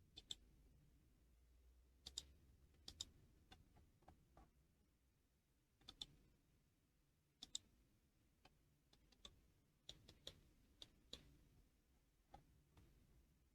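Faint computer mouse clicks over near silence, scattered irregularly and several coming in quick pairs.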